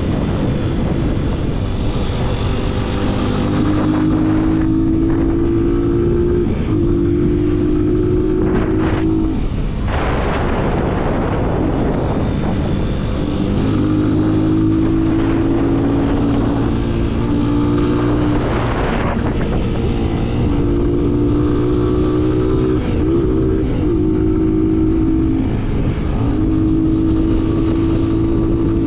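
Yamaha MT-07's parallel-twin engine through an aftermarket full-system exhaust, riding under load. The engine note holds steady for a few seconds at a time, then jumps to a new pitch at each gear change, over steady wind and road noise.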